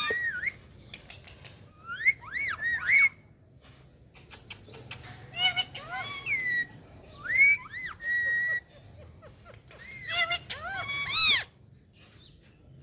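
Indian ringneck parakeet whistling and chattering in about four short bursts of rising and falling notes, one ending in a held whistle note.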